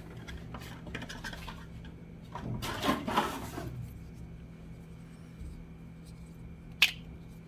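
Plastic camera-mount parts being handled: a stretch of rubbing and scraping about two and a half seconds in, and a single sharp click near the end, over a low steady hum.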